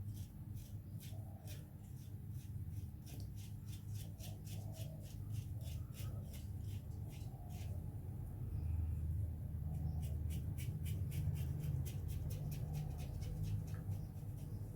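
Gillette Black Beauty double-edge safety razor scraping through lathered stubble in quick short strokes, several a second, with a short lull a little past the middle. A steady low hum sits underneath.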